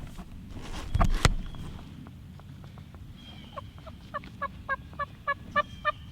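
Two sharp cracks about a second in, then a run of turkey yelps: about a dozen short, evenly spaced notes, roughly three a second, growing louder toward the end.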